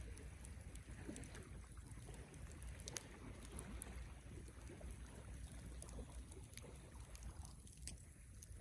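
Campfire burning with a faint low rumble and scattered crackles, with one sharper pop about three seconds in.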